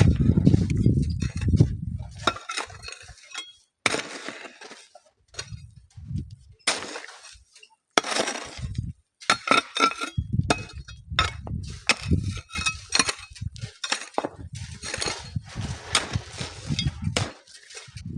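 Irregular crunching and clinking of sand, gravel and stones being worked by hand, in uneven strokes with short pauses. A low wind rumble on the microphone fades out in the first two seconds.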